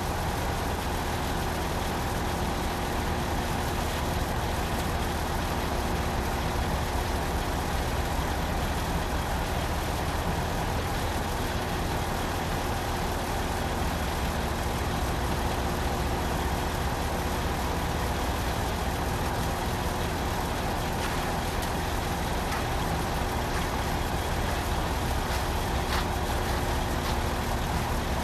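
A concrete pump truck's diesel engine running steadily, with an even drone and a constant hum.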